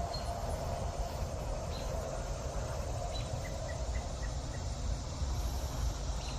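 Outdoor garden ambience: a steady insect drone over a constant low rumble, with a short run of about five faint high chirps a little past halfway.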